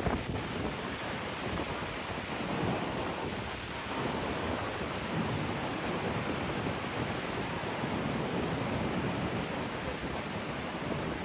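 Strong gusting wind buffeting the microphone, over the steady rush of surf breaking on the beach.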